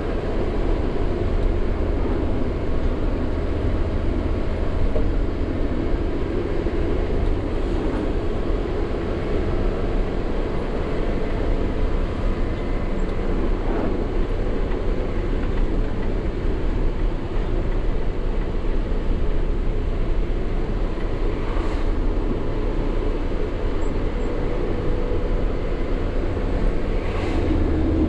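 Sany 6x4 diesel dump truck driving along a road: steady engine drone and road noise that hold at an even level.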